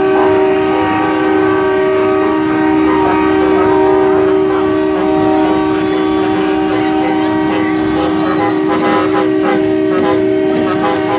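Truck-mounted train-style air horns blowing a long, loud, unbroken chord of several tones, with some notes dropping in and out after the middle.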